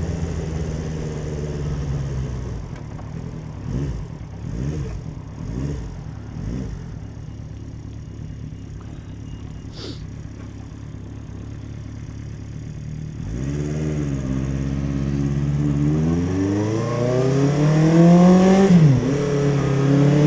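1976 Honda CB400 Four's inline-four engine on the move: running low and steady for much of the time, with a single sharp click about halfway, then about two-thirds in climbing in pitch as the bike accelerates, the pitch dropping once and climbing again near the end as it shifts gear.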